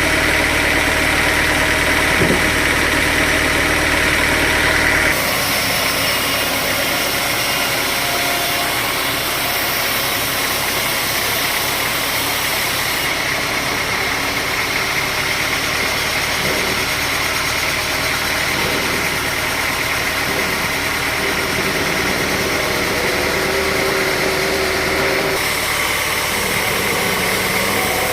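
Sawmill machinery running steadily with an engine-like hum. The sound changes abruptly about five seconds in and again near the end.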